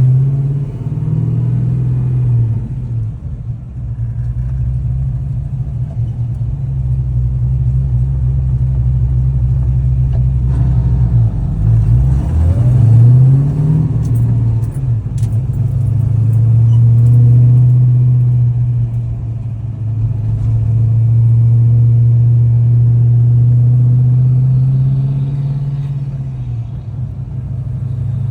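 Car engine running with a steady low rumble. About twelve seconds in, its pitch briefly dips and rises again.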